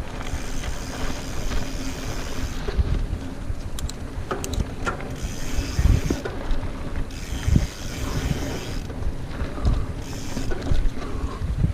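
Mountain bike rolling fast over a dirt trail: the rear hub ratchets in stretches, with bumps and drivetrain rattle and wind on the microphone.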